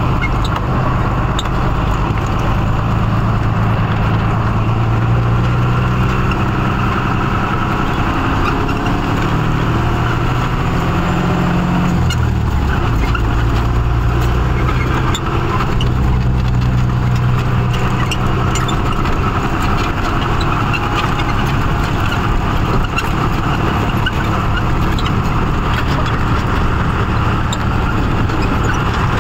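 Tata truck's diesel engine running while driving, a steady low drone with road noise; the engine note drops about twelve seconds in and shifts again a few seconds later, as with a gear or throttle change.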